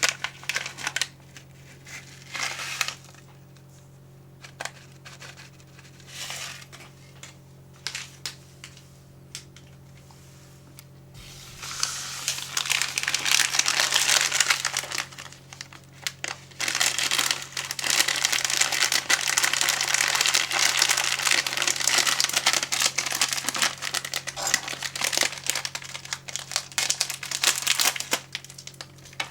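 Plastic snack packaging being handled and crinkled. There are scattered short crinkles and taps at first, then continuous dense crinkling from a little over a third of the way in.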